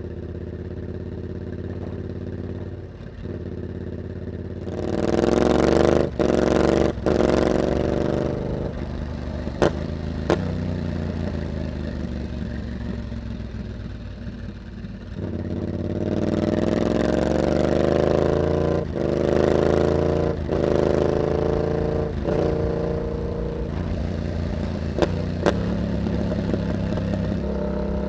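Yamaha MT-07's parallel-twin engine through an aftermarket carbon exhaust with a dB killer, close-miked at the exhaust. It runs low, then accelerates hard about five seconds in, rising in pitch with two quick breaks for upshifts. It eases off, then pulls up again through the middle and holds a steady pace, with a few sharp cracks along the way.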